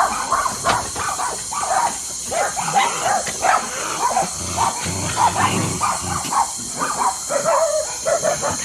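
Many dogs barking, yipping and whimpering at once, short overlapping calls one after another: a crowded pack of shelter dogs all excited together.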